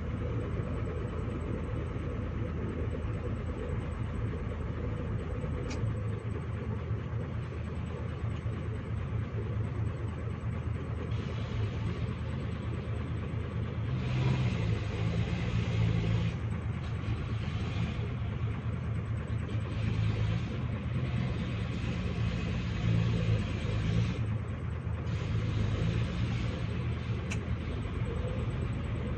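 Heavy diesel vehicle engine running with a steady low rumble, revving up in several louder surges during the second half.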